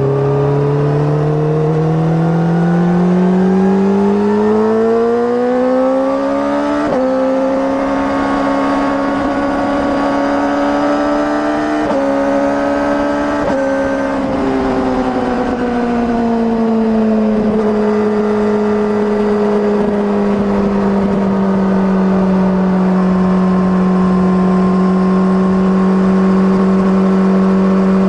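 2008 Honda CBR600RR inline-four with an Akrapovic exhaust pulling hard, its pitch rising for about seven seconds. The note breaks sharply at about 7, 12 and 13.5 seconds, which fits clutchless quickshifter upshifts. It then falls away and settles into a steady cruise for the last ten seconds.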